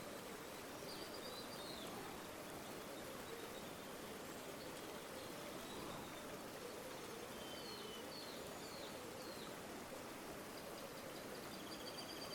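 Faint, steady flow of river water, with a few faint high bird chirps over it: short falling notes about a second in and again around eight to nine seconds, and a brief trill near the end.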